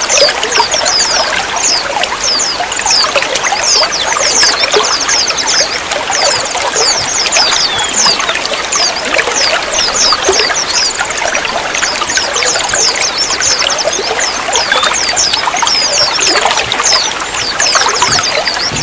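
Running water trickling and splashing steadily, with many quick high chirp-like notes.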